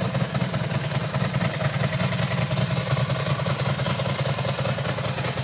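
Ducati SuperSport 1000 SS's air-cooled V-twin idling steadily through its stainless-steel GP-replica exhaust cans, with an even low pulse and no revving.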